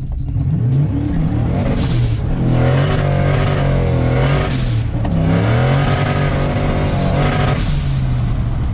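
Turbocharged 302 V8 of a 1987 Fox-body coupe, heard from inside the cabin, accelerating hard through the gears. The engine note climbs three times. Each pull ends in a short hiss as the blow-off valve vents when the throttle lifts for a shift.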